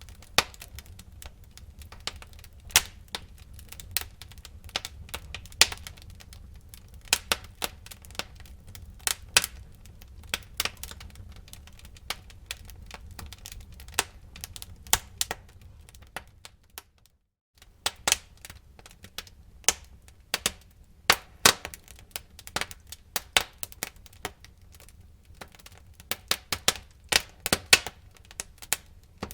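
Wood fire crackling and popping: many irregular sharp cracks over a low steady rumble of the flames. The sound drops out for about half a second around 17 seconds in, and the low rumble is weaker after the gap.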